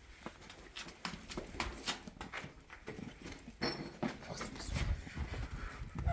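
Irregular knocks and clicks, with a low rumble about two-thirds of the way through.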